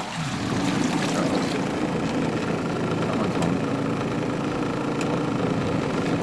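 Twin tub washing machine running with a steady motor hum during a spin rinse.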